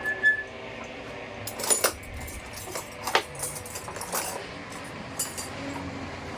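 Sharp metallic clinks and knocks of tools handled against steel during work on a dump truck tyre, about five at irregular intervals, over a steady low hum.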